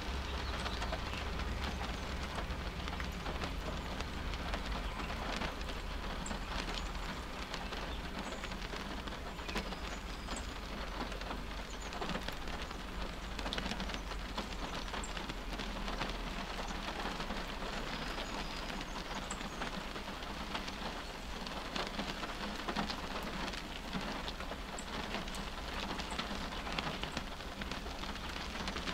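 Rain falling on a car's roof and windscreen, heard from inside the cabin: an even hiss dotted with the ticks of single drops, over a steady low rumble.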